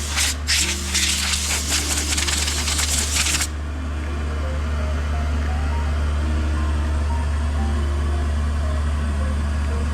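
Sandblasting: a loud hiss of abrasive blast that cuts off about three and a half seconds in, leaving a steady low hum of the blasting equipment running.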